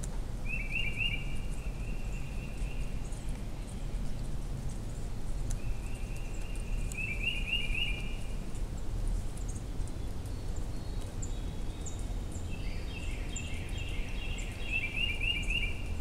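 A songbird singing a trilled phrase of about two and a half seconds, three times, over a steady low rumble, with faint high chirps scattered between.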